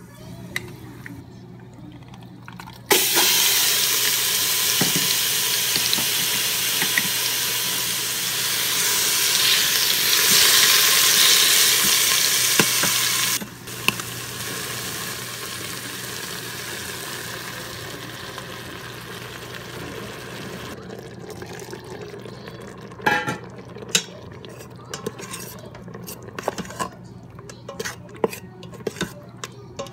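Food sizzling loudly in hot oil in an Instant Pot's stainless-steel inner pot; the sizzle starts suddenly and cuts off about halfway through, leaving a fainter hiss. Near the end a metal spoon stirs the curry, clinking and scraping against the pot.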